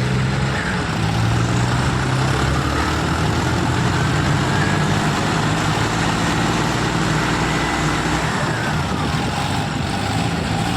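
Tractor diesel engines running steadily, their pitch shifting slightly now and then.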